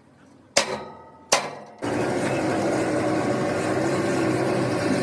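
Two sharp metallic knocks, each ringing briefly, then a loud steady machine noise that starts abruptly just under two seconds in and runs on.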